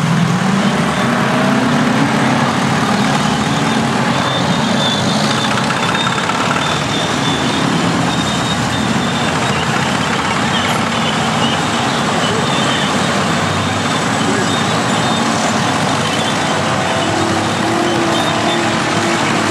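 Several heavy diesel earthmoving machines (bulldozers, scrapers and a dump wagon) running and working together, a steady, dense engine noise, with a faint, broken high beeping at times.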